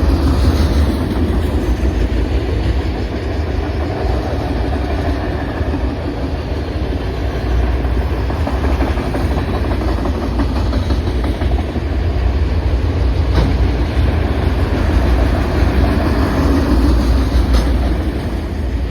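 Freight train's cars rolling past on the track: a steady rumble of steel wheels on rail, with a couple of faint clicks late on.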